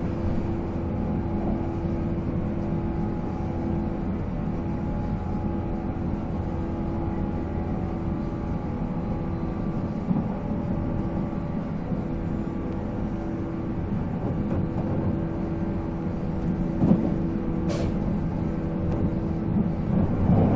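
Running sound of a JNR 485-series electric train, its MT54 traction motors and gearing whining at a steady pitch over the rumble of the wheels on the rail. A single sharp click comes near the end.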